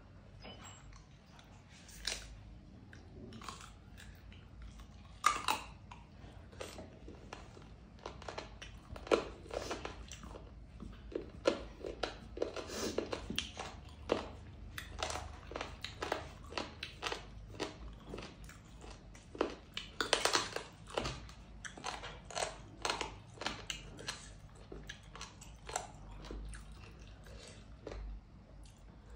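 A woman chewing mouthfuls of food: a long run of short clicks and smacks from the mouth, sparse at first and coming several a second through the middle stretch.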